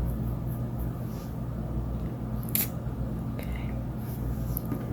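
Steady low electrical hum with a few faint, short clicks and rustles of craft materials being handled.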